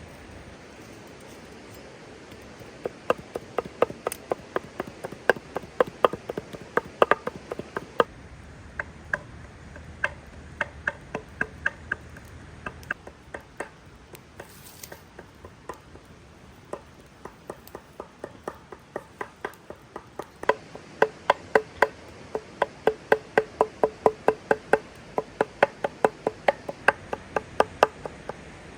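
Knife chopping on a wooden cutting board in quick, even strokes, about four a second. It comes in two long runs with a pause in between.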